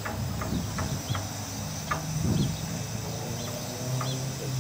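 Small birds chirping a few times over a steady low hum, with light clicks here and there.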